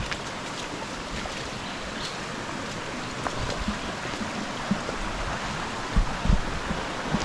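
Rainforest stream rushing over rocks, a steady hiss of running water. A few dull thumps, the loudest about six seconds in, sound over it.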